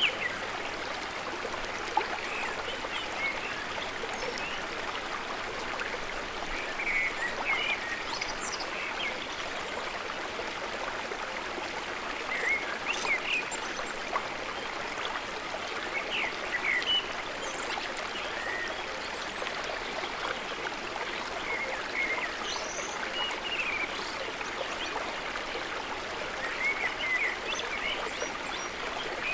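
Steady flowing water, with short bird chirps now and then.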